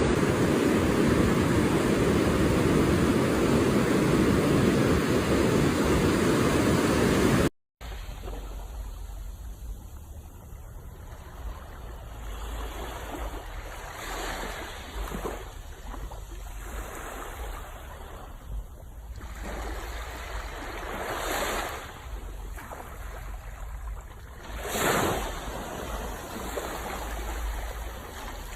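Sea waves washing onto the shore. A loud steady rush of water fills the first seven seconds or so, then the sound cuts out abruptly. It comes back quieter, with a swell as each wave breaks, the loudest a little before the end.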